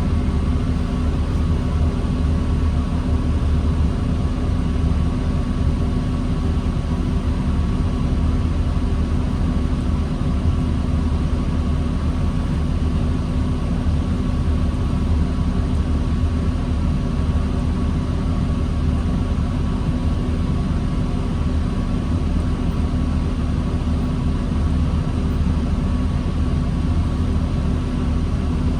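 The diesel engine of a 2009 New Flyer D40LFR city bus running steadily: a constant low drone with a faint steady whine above it, and no revving.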